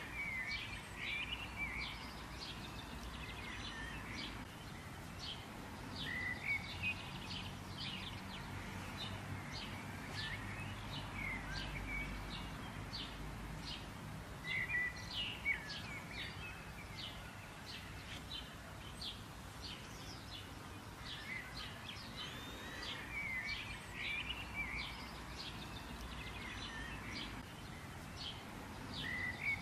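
Small birds chirping and twittering, with many short sharp chirps and brief curling phrases, over a steady outdoor background hiss.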